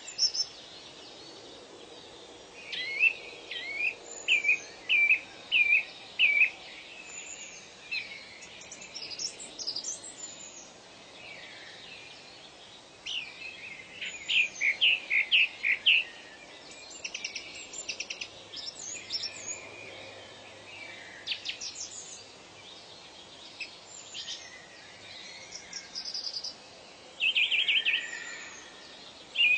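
Wild birds singing and chirping over a steady faint hiss of ambience. The song comes in runs of short, quick, high repeated notes a few seconds apart, with a buzzy trill near the end.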